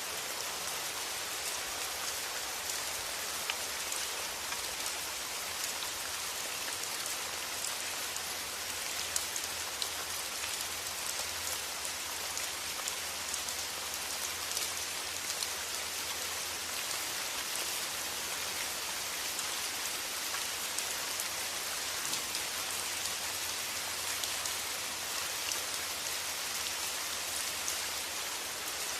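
Steady rain: a dense, even hiss scattered with small ticks of individual drops, over a faint low hum that weakens about halfway through.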